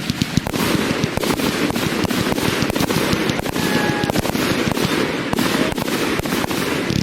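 Fireworks going off in a rapid, continuous string of bangs and crackles.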